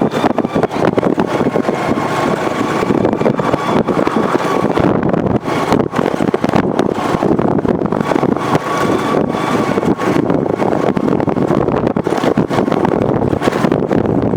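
A train passing close by: a steady, loud rumble with constant fine clatter and a faint, steady high whine over it.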